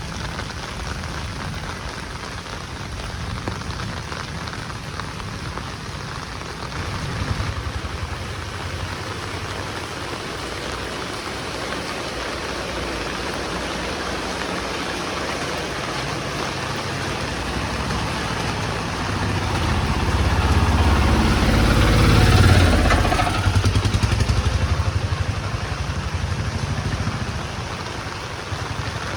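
Heavy rain falling steadily. About twenty seconds in, a motor vehicle approaches and passes, swelling to its loudest and then fading back under the rain.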